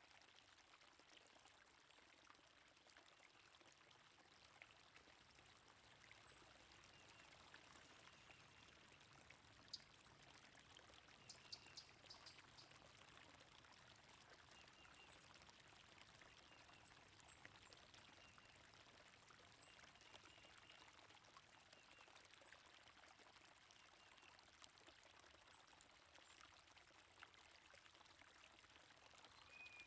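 Faint steady running water of a trickling stream, with small birds giving short high chirps now and then and a brief cluster of ticks near the middle.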